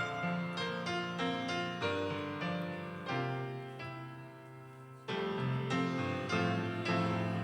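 Piano playing a slow hymn passage in struck chords that die away. It softens for a couple of seconds, then comes back louder about five seconds in.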